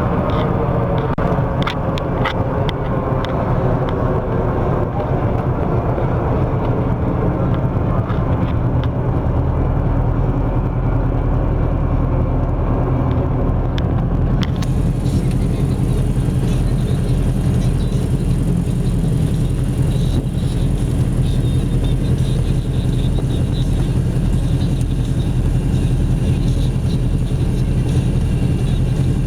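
The Piper Seneca's twin piston engines running at low power while taxiing, heard from inside the cockpit. Their pitch falls over the first several seconds and then holds steady, and a steady hiss joins in about halfway through.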